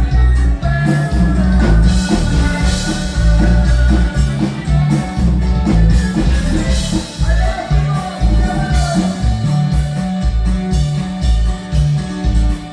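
Norteño band music: a bass line stepping from note to note under a lead melody line, with some singing.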